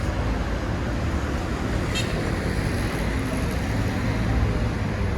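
Road traffic passing on a busy city street: a steady rumble of engines and tyres, with a short click about two seconds in.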